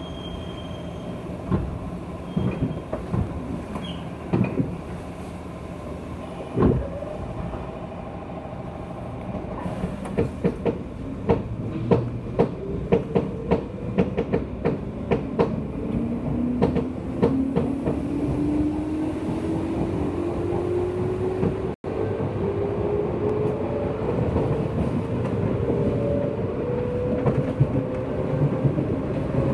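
A JR West 201 series electric train, heard from its motor car as it gathers speed. Wheels clack rapidly over rail joints or points in the middle of the stretch, while the traction motors' chopper-control whine climbs steadily in pitch through the second half.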